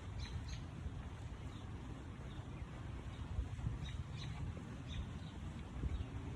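Birds chirping in short, scattered high calls over a steady low outdoor rumble.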